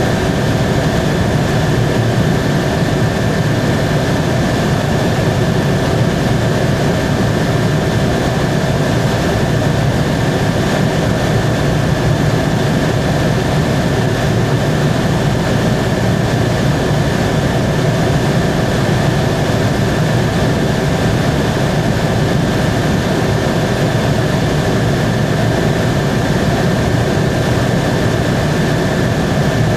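Helicopter in flight: steady engine and rotor noise with a constant high whine running through it.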